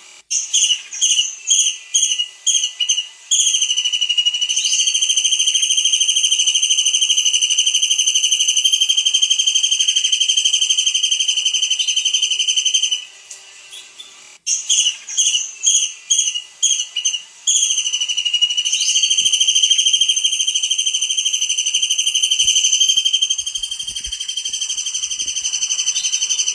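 Kingfisher (tengkek udang) calling: a quick run of short, sharp, high notes, then a long, shrill, high-pitched trill held for about nine seconds. The whole phrase repeats about halfway through.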